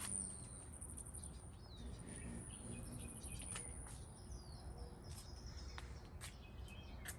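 Small birds chirping faintly in short calls and quick glides, over a thin, steady, high-pitched insect buzz and a low background rumble.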